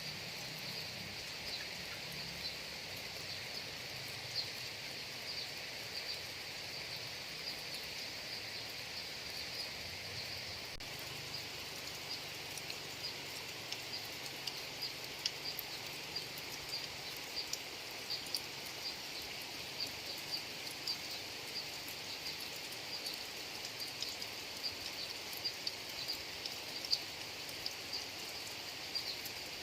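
Steady rain falling on rice paddies: an even hiss with many small drop ticks scattered through it, the ticks growing more frequent after about halfway, over a steady high-pitched hum.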